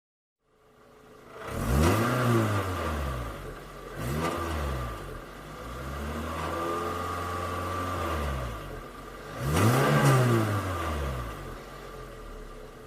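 Car engine revved several times: short revs about 2 and 4 seconds in, a longer rev held steady for a couple of seconds, another sharp rev near 10 seconds, then dropping back toward idle.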